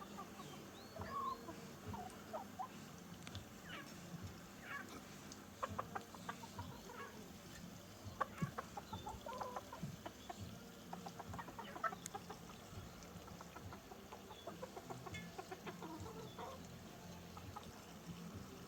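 Chickens clucking softly in short, scattered calls, with a few sharp clicks among them.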